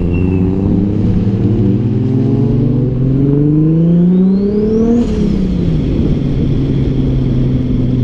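Car engine accelerating hard, its pitch climbing steadily for about five seconds, then dropping away as the throttle comes off or a gear changes, before settling into a steady drone.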